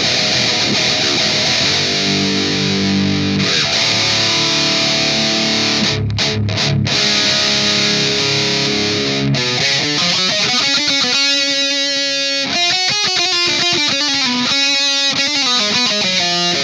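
Distorted electric guitar playing heavy riffs. In the second half the notes ring more clearly, broken by short, rhythmic stops between chords.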